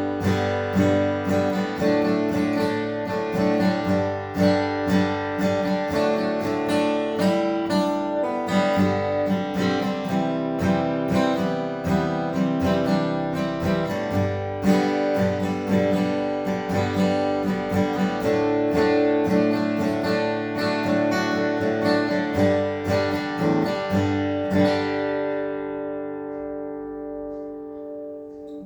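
Martin D-28 Reimagined rosewood dreadnought acoustic guitar strummed in chords; about 24 seconds in, a last chord is left to ring out and slowly fades.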